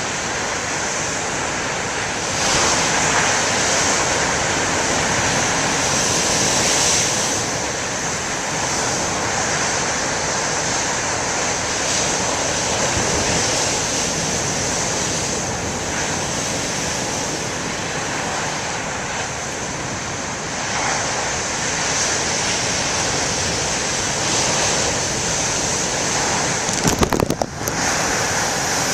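Heavy storm surf crashing on a rocky shore, a continuous rushing roar that swells as big waves break, with wind buffeting the microphone. A brief clatter of knocks near the end.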